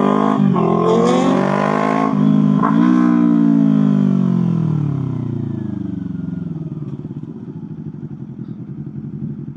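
A motorcycle engine revving, then winding down as the bike slows, with its pitch falling steadily. For the last few seconds it settles into an even, pulsing idle.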